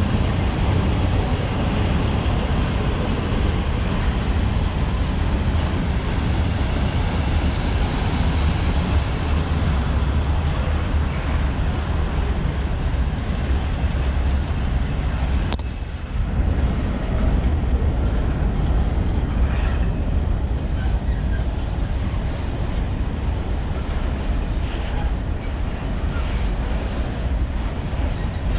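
A train rolling through the station with a steady, loud rumble, broken by a brief dip about halfway through.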